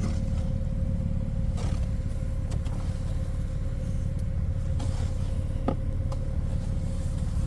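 Car engine idling with a steady low rumble and a faint steady hum above it, with a few light clicks and taps.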